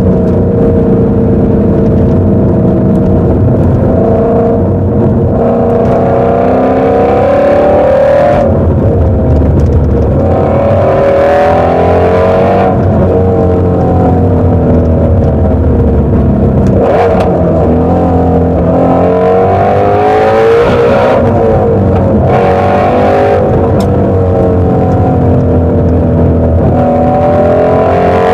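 Ford Shelby GT350's 5.2-litre Voodoo flat-plane-crank V8 running hard on the road, its note rising under acceleration and dropping back several times as the driver lifts off and changes gear.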